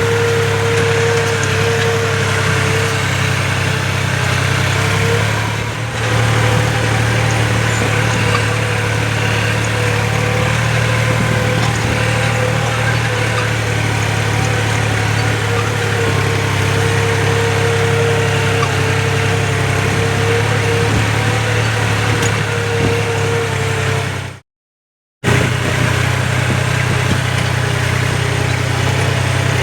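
New Holland tractor's diesel engine running steadily, a low hum with a steady higher whine over it; the sound cuts out completely for under a second near the end.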